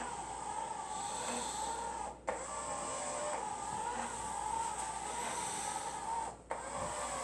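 Robot mop running, its motor giving a steady whine as it works across the floor on its two mop pads; the sound cuts out briefly twice.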